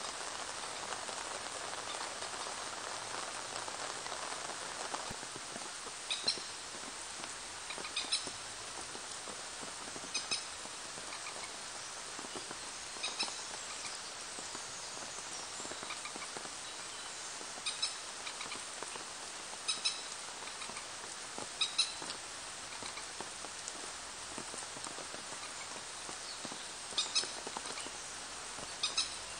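Steady rain falling on a pond and the surrounding foliage, with a bird giving short, high chirps every couple of seconds from about six seconds in.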